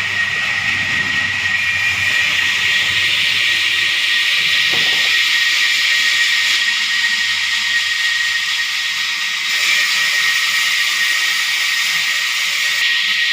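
Sawmill saw running through timber: a steady high whine over a hiss.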